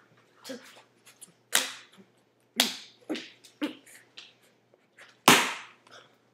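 A person making a string of short, sharp vocal noises, about eight in all, each starting suddenly and fading quickly; the loudest comes about five seconds in.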